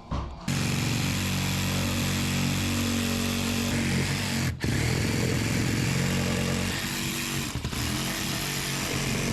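A loud motor-driven machine running steadily at a constant pitch, starting about half a second in and breaking off for a moment about four and a half seconds in.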